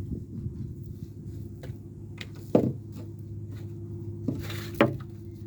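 Scrap wood knocked and handled: a sharp knock about two and a half seconds in and two more near the end, over a steady low hum.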